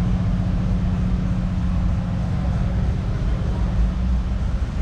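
An engine running with a steady low rumble and a constant hum, the hum fading about four seconds in.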